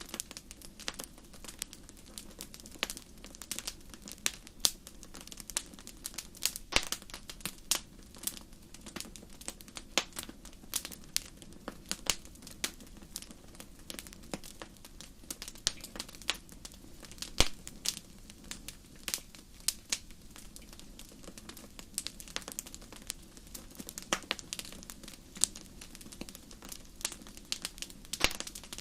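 Wood fire crackling in a fireplace: a steady bed of soft noise with frequent irregular sharp pops and snaps, a few louder ones standing out.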